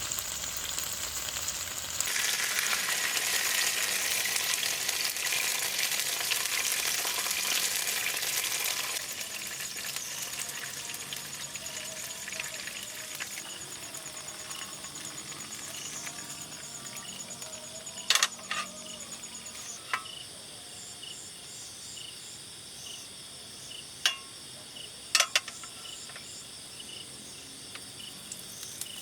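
Steady sizzling hiss of a pot of water heating over a camp fire or stove, louder for the first nine seconds and then quieter. An insect chirps rhythmically in the background, and there are a few sharp clicks in the second half.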